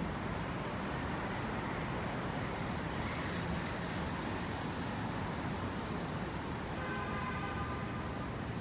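Steady downtown traffic and rail noise, with a faint high tone gliding up and down in the first half and a high squeal of several stacked tones starting about seven seconds in.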